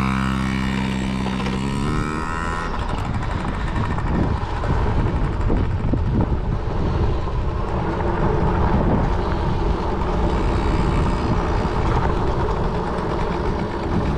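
Small dirt bike engine running at a steady pitch for about two seconds, then giving way to a steady rough rushing noise as the bike rides on.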